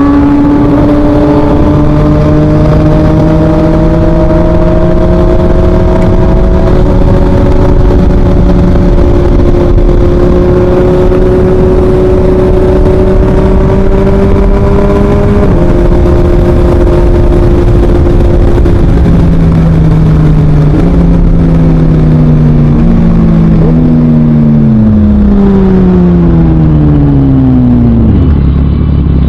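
2023 Yamaha MT-09's inline three-cylinder engine through an Akrapovic full exhaust, pulling with the revs slowly climbing, then a drop in revs about halfway. In the last ten seconds the revs fall in a series of steps and glides as the bike slows, settling low near the end.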